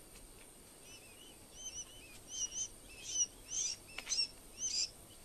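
Sandgrouse calling: a run of short, high chirps that starts about a second in, often coming in pairs, and grows louder toward the end.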